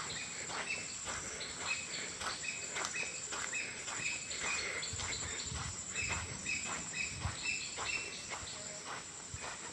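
Outdoor insect chorus: a steady, high, even trill, with many short bird chirps repeating all through and a few soft knocks.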